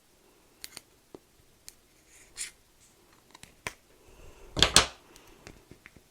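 Close-miked handling sounds: scattered sharp clicks and taps, with one louder burst about four and a half seconds in.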